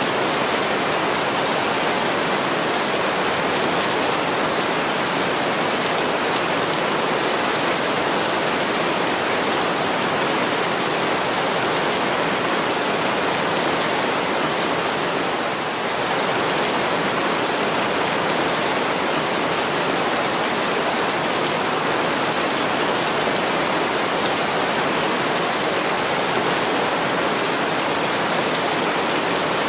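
Heavy rain falling steadily on a window, a dense, even hiss of drops that dips slightly in loudness about halfway through.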